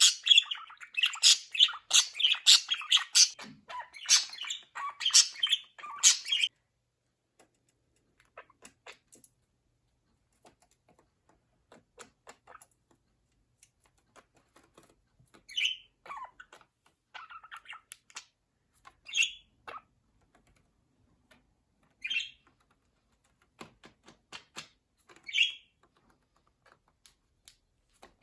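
Budgerigars chirping and chattering rapidly for about six seconds, cut off suddenly. After that come a few single chirps every three or four seconds, with faint clicks in between.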